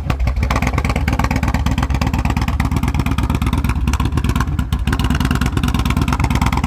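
2019 Yamaha Bolt's air-cooled V-twin engine running with a rapid, even train of exhaust pulses and a deep rumble.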